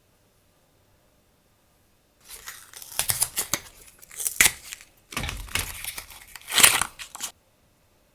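Stationery packaging crinkling and tearing as it is handled and opened, in two bursts of about two seconds each, starting about two seconds in and stopping abruptly.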